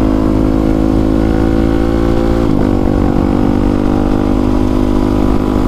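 Honda CRF450R's 450 cc single-cylinder four-stroke engine running through its new exhaust while riding on a trail, at a fairly steady throttle. About two and a half seconds in the revs dip briefly and pick back up.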